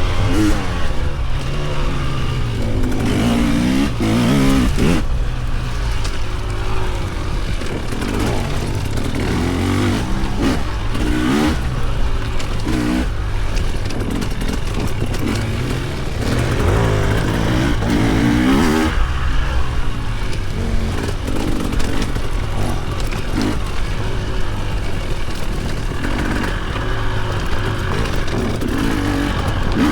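Dirt bike engine revving up and down over and over as the bike is ridden off-road, its pitch rising and falling every second or two, over a steady low rumble.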